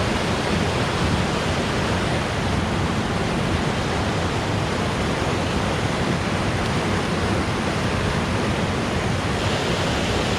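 Steady, loud rush of river water pouring over a dam.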